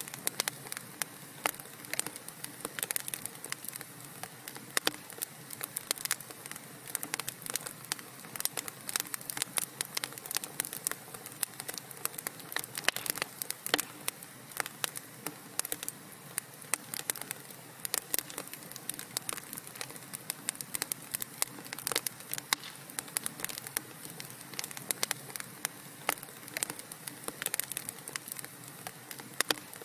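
Wood fire crackling in a fireplace: many irregular pops and snaps over a low steady hiss.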